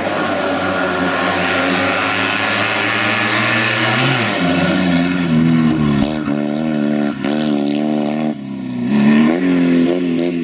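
Polski Fiat 126p rally car's air-cooled two-cylinder engine revving hard under acceleration, its pitch climbing and dropping back through several gear changes.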